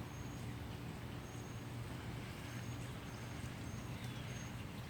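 Steady outdoor background: a constant low hum under a noisy haze, with faint, short, high-pitched chirps repeating about once a second.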